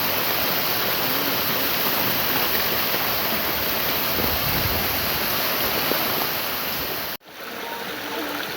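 Mountain stream rushing steadily. About seven seconds in the sound cuts out for an instant and comes back a little quieter.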